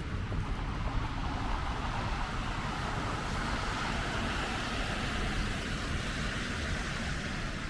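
Street traffic: a car's tyre hiss swells from about three seconds in and fades near the end, over a steady low rumble.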